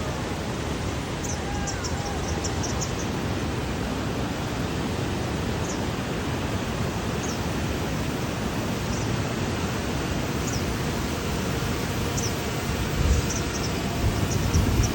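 Steady rushing noise like wind on the microphone, with about a dozen brief high chirps scattered through it and a few low thumps of buffeting near the end.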